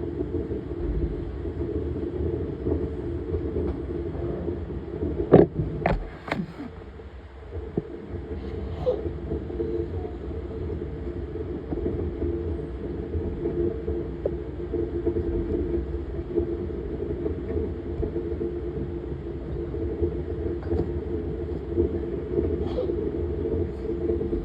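Laundry machine running with a steady rumble and hum, with a few sharp knocks about five to six seconds in.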